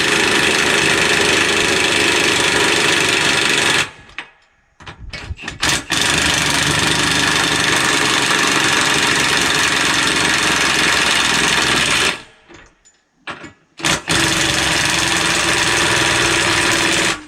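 Milwaukee one-inch cordless impact wrench hammering on skidder wheel lug nuts in long runs. It stops suddenly twice, about 4 and 12 seconds in, and is given a few short trigger blips before it runs on again.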